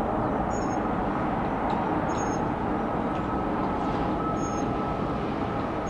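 Jet airliner engines running as a steady rumble, with a faint whine coming in about halfway. Short high chirps repeat about every two seconds over it.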